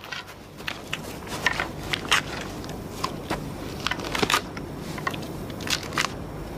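Rustling and crackling of people moving through dry grass, with irregular sharp clicks over a steady low background noise.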